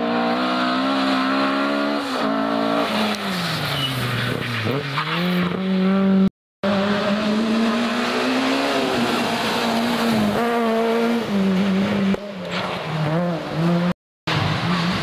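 Rally cars at full stage speed, engines braking down in pitch and then revving back up hard out of a corner, with some tyre squeal. The sound breaks off twice for an instant where one car's pass gives way to the next.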